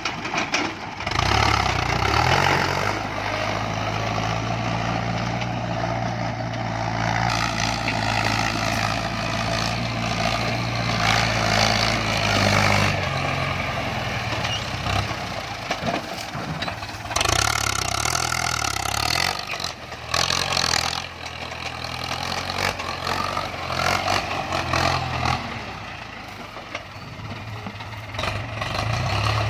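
Ford 6610 tractor's diesel engine running, its speed stepping up and down several times, with loud stretches of rushing noise about two-thirds of the way through.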